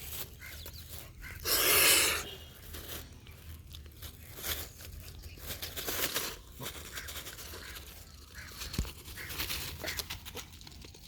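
A duck pecking and scooping up wheat grains with its bill: a run of quick crunchy clicks and scrapes, with one brief louder rush of noise about two seconds in.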